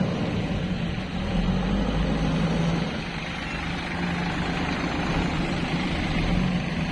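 Heavy diesel engine running steadily, a little quieter for about a second some three seconds in.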